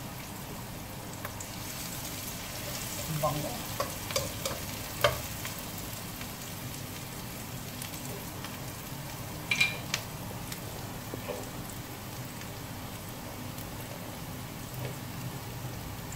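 Chopped onion and ginger sizzling steadily in oil in a nonstick wok. A slotted spatula stirring them knocks and scrapes against the pan a few times, about three to five seconds in and again near ten seconds.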